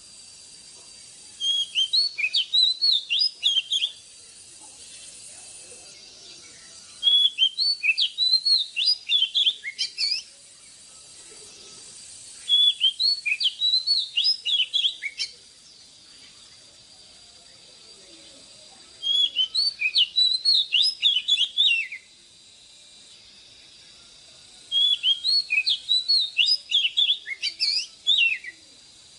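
Oriental magpie-robin singing: five phrases of quick, varied whistled notes, each lasting about three seconds and coming about every six seconds. A faint steady high hiss runs underneath.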